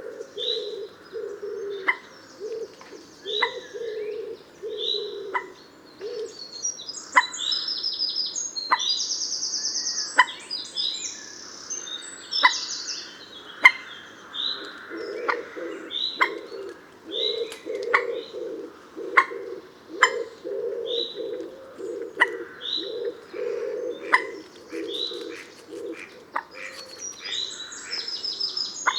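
Several birds calling together: sharp call notes repeated about once a second over low pulsing calls, with bursts of high buzzy trills about a third of the way through and again near the end.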